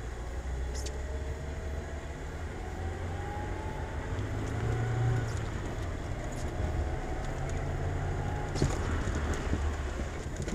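Car engine and tyre noise heard from inside the cabin, a steady low rumble with the engine note rising slowly twice as the car accelerates.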